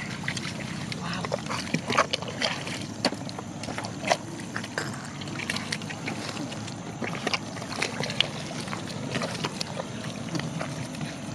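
Irregular splashing and sloshing in shallow muddy water, with many short sharp splashes over a low steady rumble.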